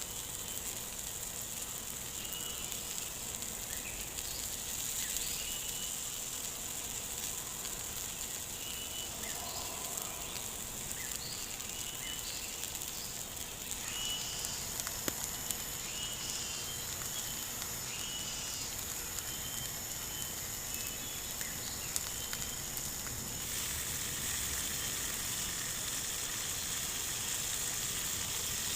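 Squirrel meat sizzling on a hot stone: a steady high hiss, with scattered short high chirps over it.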